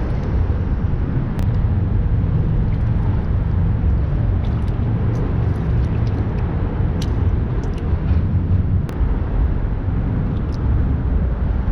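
Steady low rumble on a fishing boat, with a few faint sharp clicks.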